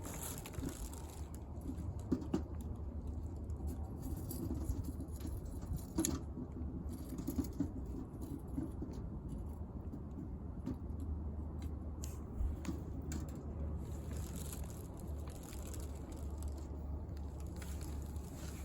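Wood fire burning in a homemade bucket fire pit, with scattered crackles and pops over a low steady rumble.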